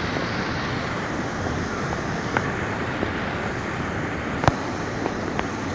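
Steady rush of a waterfall and river, with a few sharp clicks over it, the loudest about four and a half seconds in.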